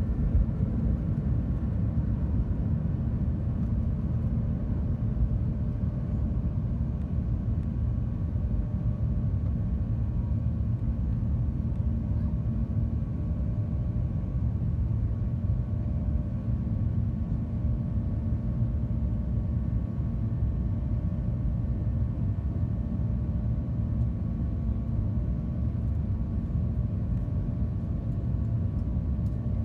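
Steady cabin noise of a Boeing 737-700 airliner in flight: a deep, even rumble of engines and airflow with a faint steady hum over it, unchanging throughout.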